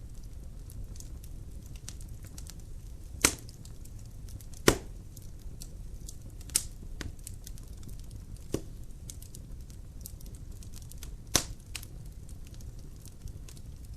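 Burning logs in a fireplace crackling: a steady low rumble of the fire with many small ticks and pops, and five loud sharp cracks, the loudest three at about three, five and eleven seconds in.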